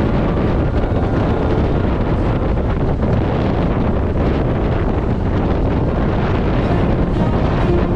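Wind buffeting the microphone: a loud, steady rumbling noise with no breaks.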